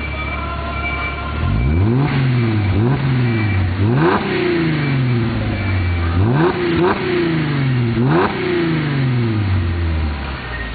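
Mercedes-Benz W207 E350's V6 idling through a newly fabricated centre-to-rear muffler system, then blipped about six times, each rev rising quickly and sliding back down. It settles back to idle near the end.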